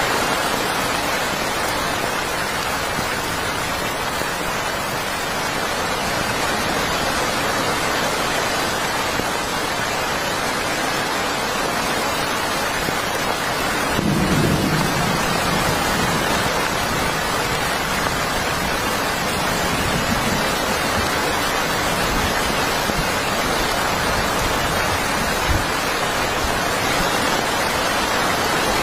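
Heavy rain falling steadily, with a brief low rumble about halfway through and a short low thump near the end.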